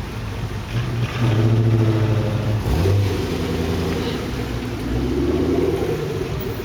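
A car engine revving as the car drives past, loudest from about one to three seconds in, with the pitch shifting and swelling again near the end.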